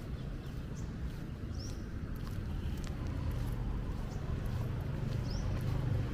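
Street ambience: a low traffic rumble that grows louder as a vehicle approaches, with light footsteps on wet pavement. A bird gives two short high chirps, one early and one near the end.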